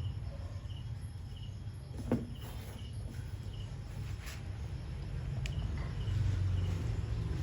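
Crickets chirping, short high chirps repeating about twice a second over a steady low rumble, with a sharp click about two seconds in.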